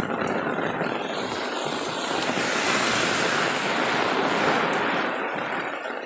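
Steady rushing noise of heavy rain, swelling for a few seconds in the middle before easing.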